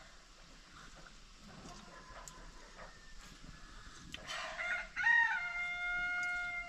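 A rooster crowing once, starting about four seconds in: a long held call that falls in pitch as it ends.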